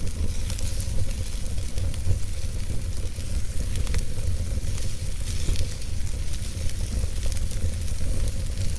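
Wood fire in a fireplace crackling and hissing, with small pops scattered throughout and a steady low rumble underneath.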